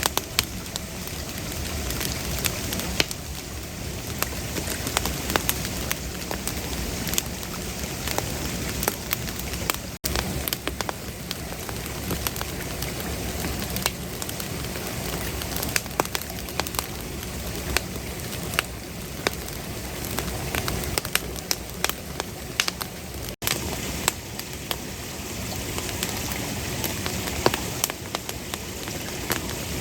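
Campfire burning: a steady hiss of flame with frequent sharp pops and crackles from the wood.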